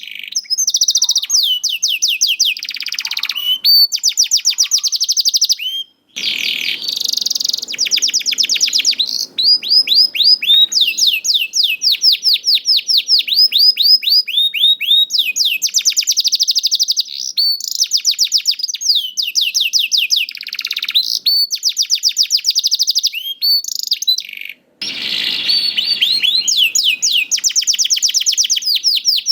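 Domestic canary singing a long, loud song made of rapid trills, each a fast run of repeated falling whistled notes. The trills change from phrase to phrase with hardly a pause, and the song breaks off briefly twice.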